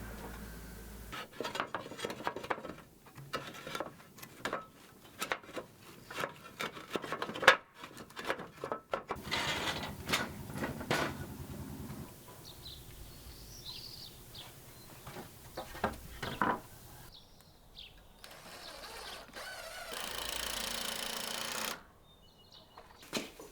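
Hand work on wooden door parts: a run of irregular knocks, taps and rattles of wood and tools, broken into short clips, with a steady hiss lasting about two seconds near the end.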